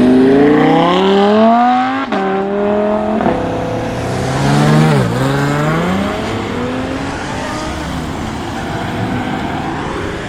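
A high-performance car engine accelerating away hard: it revs up, drops in pitch with a gear change about two seconds in, then climbs again through another shift before fading as the car leaves.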